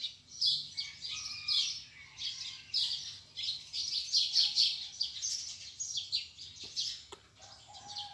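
Small birds chirping busily, a rapid run of short high chirps, several birds overlapping, with hardly a break.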